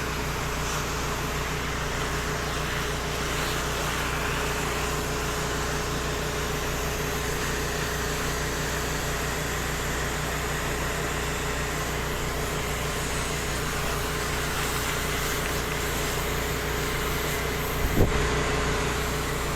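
The small engine of a soft-wash rig's generator and pump runs steadily under an even hiss. A single knock comes near the end.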